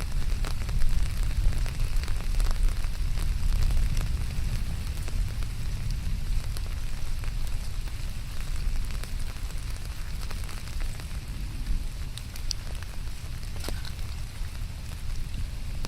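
Steady rain with a dense patter of individual drops, over a continuous low rumble.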